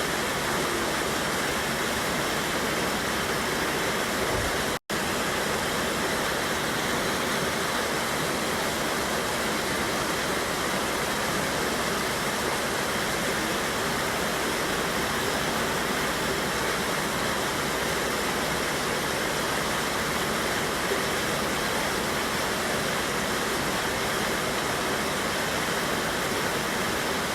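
Steady rushing of a waterfall on a mountain river, water pouring and splashing in an even, unbroken wash. The sound cuts out for an instant about five seconds in.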